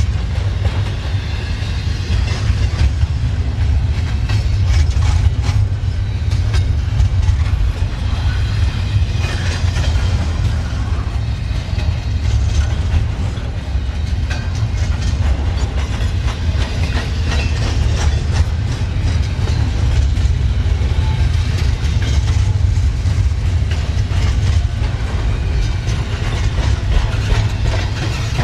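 A train's cars rolling past on the track: a steady low rumble of wheels on rail, with repeated clacking as the wheels cross rail joints.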